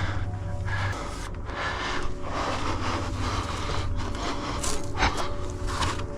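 Clothing, body and climbing gear scraping and rubbing against sandstone as a climber works up a narrow chimney, in irregular drawn-out scrapes.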